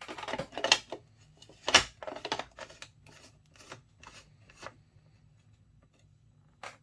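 Handling noise: irregular rustling, rubbing and clicking as things are moved about by hand. There is a flurry in the first few seconds with one louder knock just under two seconds in, then it thins out, with a last click near the end.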